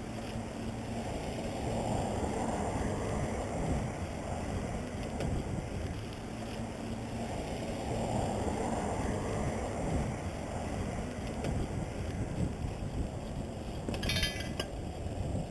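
Wind rushing over the microphone of a camera riding on a moving bicycle, a steady low rumble that swells twice, with a short burst of clicking near the end.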